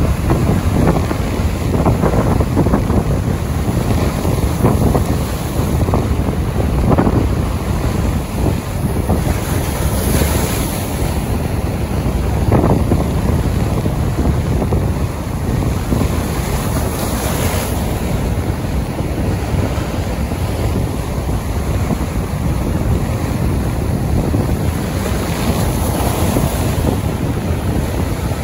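Strong wind buffeting the microphone in a steady, loud rumble, with rain, and a few gusts swelling into a louder hiss.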